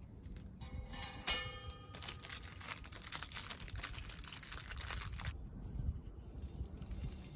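A single metallic clink that rings briefly, then about three seconds of dense crackling or rustling that stops abruptly, followed by a faint steady hiss.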